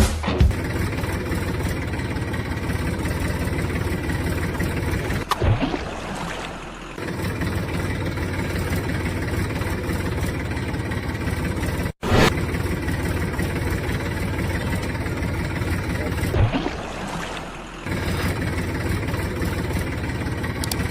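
An engine running steadily, breaking off for an instant about halfway through, with two brief drops in level about a quarter and three quarters of the way in.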